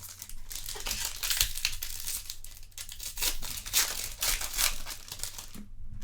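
Foil wrapper of a trading-card pack crinkling and tearing open, a run of crackly rustles that stops shortly before the end.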